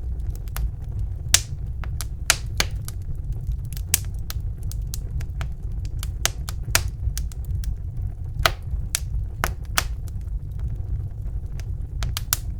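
Wood fire burning in a fireplace: a steady low rumble of the flames with irregular sharp crackles and pops, some louder than others.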